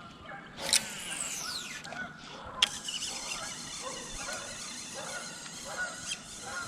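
A fishing cast: a sharp click, then a high whoosh falling in pitch as the line pays out, and another click about two seconds later, likely the reel's bail closing. Geese honk faintly in the distance throughout.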